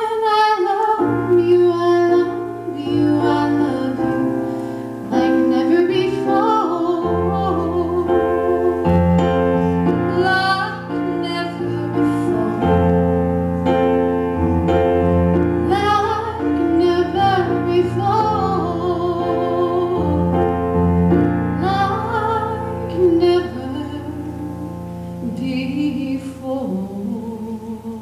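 A female voice singing a slow ballad with vibrato over sustained piano chords. Near the end the voice drops lower and softer.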